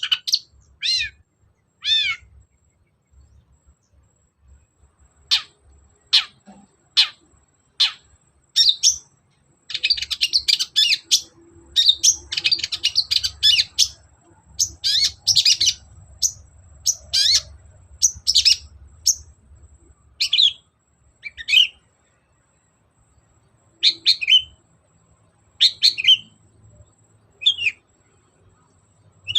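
Long-tailed shrike (cendet) singing: short, sharp, high calls, many dropping in pitch, given in bursts with short pauses, and a dense run of fast chattering phrases about a third of the way in.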